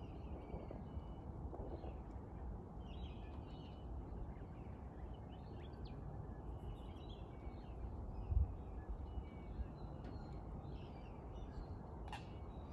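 Birds calling faintly and intermittently over steady low background noise, with one dull thump about eight seconds in.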